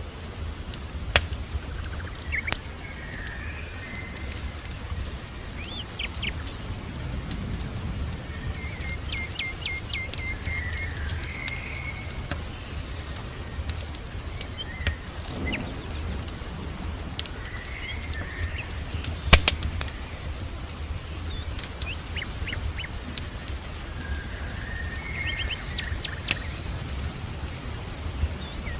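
Small birds chirping in short repeated trills, with the scattered sharp pops and crackles of a fireplace fire, one louder pop a little past the middle, over a steady low rumble.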